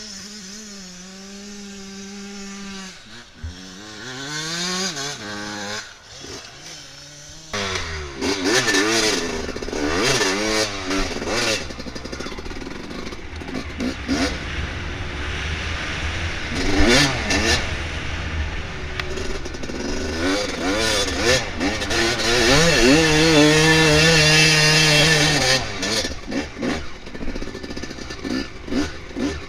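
Dirt bike engine idling steadily, then revved a few times, then ridden off about a quarter of the way in: the engine climbs and falls in pitch through the gears over clattering from the trail. It holds steady high revs for a couple of seconds near the end before easing off.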